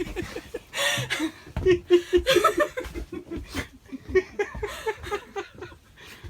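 People laughing in rapid, repeated bursts of short chuckles.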